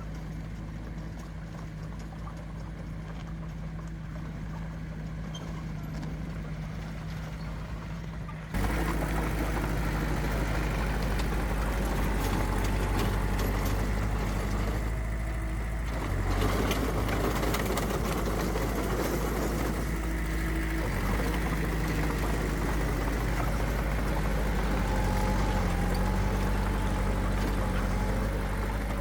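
Diesel engine of heavy earthmoving machinery running steadily. About eight seconds in, the sound jumps suddenly louder and fuller and then stays that way.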